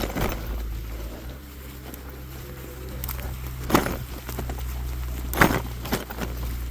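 Jasion EB5 Plus e-bike riding over a snowy trail: a steady low rumble with a few sharp knocks and rattles from the bike over bumps, the loudest about four and five and a half seconds in.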